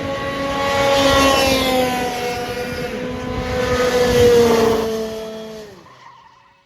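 Whine of electric racing motors, several pitched tones that slide slowly down, then fall away and fade out near the end.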